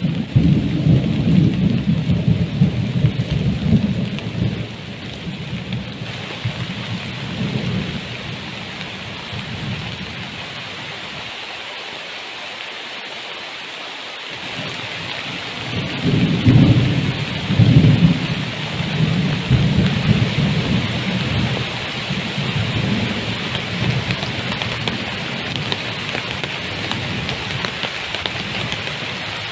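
Heavy tropical rain falling steadily, with thunder rumbling during the first few seconds and again from a little past halfway.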